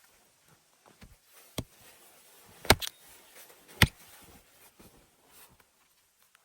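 A handful of sharp, separate knocks, the loudest two about halfway through, with soft handling noise between them.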